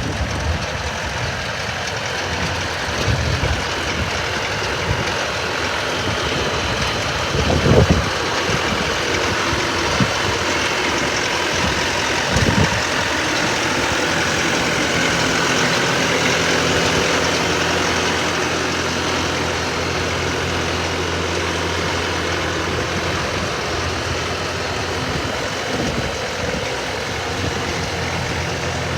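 Bobcat T590 skid steer's diesel engine running steadily, with a few short clunks in the first half.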